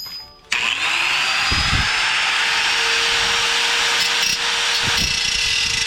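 Electric angle grinder switched on about half a second in, its whine rising as it spins up, then running steadily as it cuts into overlapping sheet steel.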